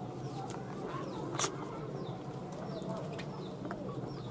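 Several birds chirping and calling in short, scattered notes, with one sharp call about a second and a half in, over a steady low hum.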